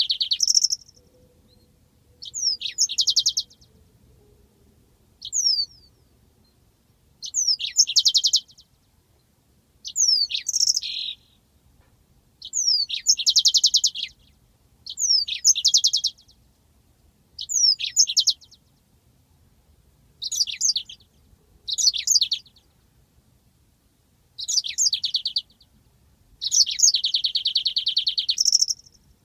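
Yellow-fronted canary (Mozambique canary) singing. Short phrases of quick sweeping notes run into fast rolling trills, one about every two seconds. The longest rolls come near the middle and near the end.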